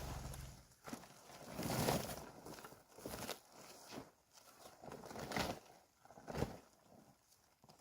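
Plastic tarp crinkling and rustling in irregular swells about once a second as its stuck-together layers are pulled apart. A low hum cuts off about half a second in.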